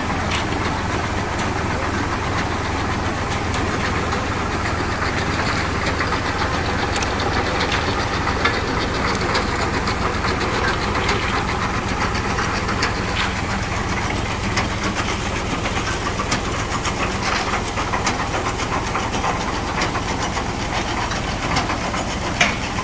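Tractor engine running steadily at a constant speed, with scattered light clicks and knocks over it.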